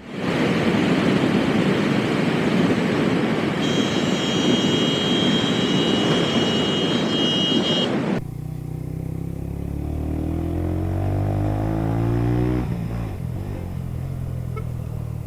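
Loud rushing wind and road noise for about eight seconds, with a steady high whine joining partway through. After an abrupt cut, a vehicle engine accelerates with its pitch rising, then eases off.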